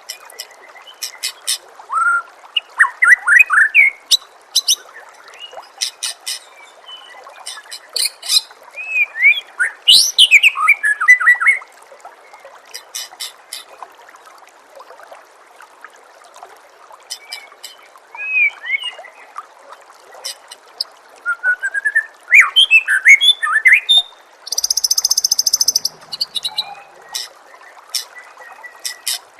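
White-rumped shama singing a varied song: clear whistled notes sliding up and down, rapid chattering click series, and one harsh buzzy phrase near the end. A steady trickle of running water runs beneath it.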